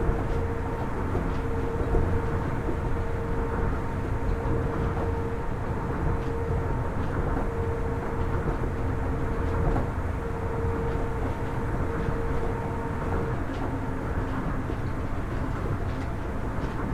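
Kitakyushu Monorail Series 1000 car, refitted with a Hitachi IGBT-VVVF inverter, running between stations: a steady low rumble of the train under way, with a mid-pitched hum that cuts in and out every second or so and drops away near the end.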